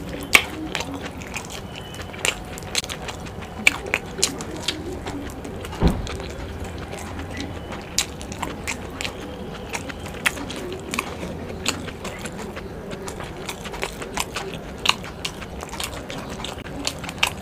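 Close-miked eating sounds: chewing and lip smacks on saucy chilli momos, with frequent sharp, irregular wet clicks and a low thump about six seconds in.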